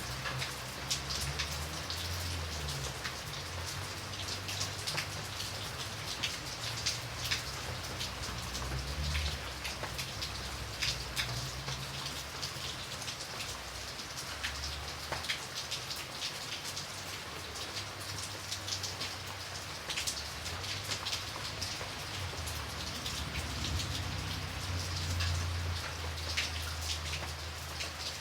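Steady rain, with many individual drops tapping sharply on a surface, over a low rumble that swells and fades.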